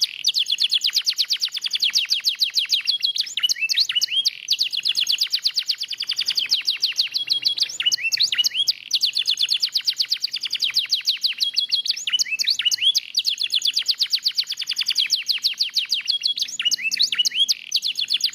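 Lemon-yellow domestic canary in full song: long, very fast rolling trills, broken every few seconds by short down-sliding notes before the trilling resumes.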